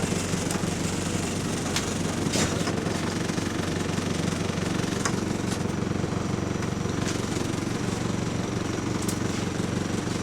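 Bus engine running with a steady rattle, heard from inside the passenger saloon, with a few sharp clicks and knocks from the bodywork.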